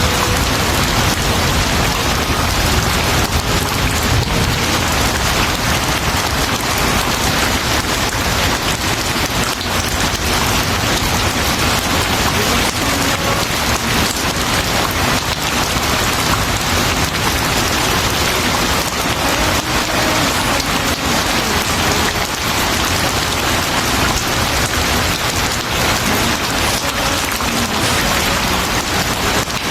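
Steady, loud rain falling, an even wash of sound that does not change.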